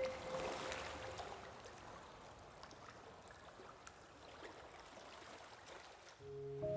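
Faint recorded rain ambience, a soft steady patter with scattered drips. The last notes of one music piece fade out in the first second, and the next piece starts near the end.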